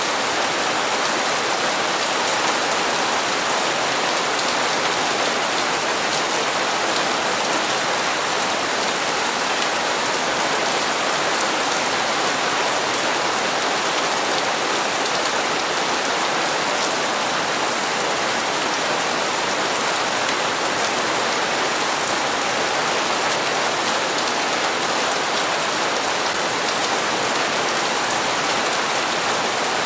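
Steady rain falling and pattering on hard surfaces, an even hiss with no break or change.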